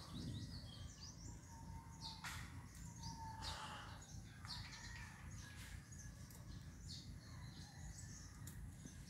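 Birds chirping and calling over a steady low rumble, with a couple of faint clicks a few seconds in.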